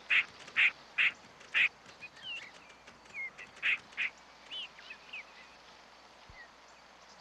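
Tree squirrel barking: a run of short, harsh calls, four loud ones in the first two seconds and two more around the fourth second, with softer chirping calls between them.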